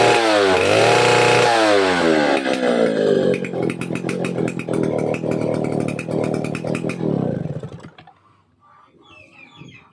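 Stihl 070 AV chainsaw's two-stroke engine revved up and down a few times, then dropping to a slow ticking idle before it is shut off and dies away about eight seconds in.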